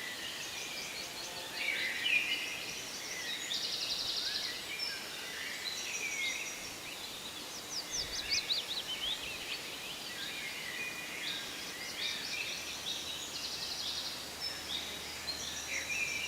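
A chorus of several songbirds singing together in a forest, with rapid trills, quick downward-sweeping notes and chirps overlapping throughout, over a faint steady hiss.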